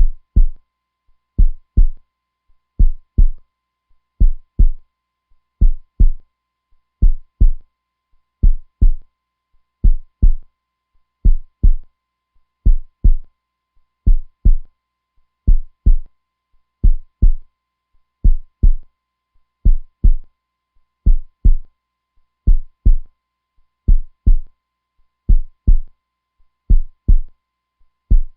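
Heartbeat, slow and steady: a low double thump (lub-dub) repeating about once every one and a half seconds.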